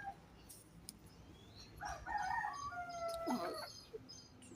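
Rooster crowing once, a drawn-out crow beginning about two seconds in, with chickens clucking around it.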